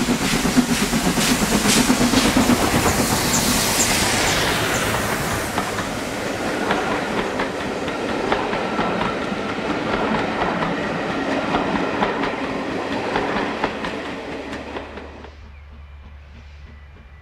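Train on the heritage line passing close by, wheels clattering over the rail joints; the noise fades away as it recedes, dropping off about fifteen seconds in.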